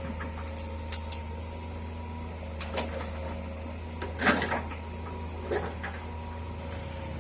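Heavy diesel engine running steadily with a low hum. Sharp clanks and knocks come at irregular intervals over it, the loudest about four seconds in.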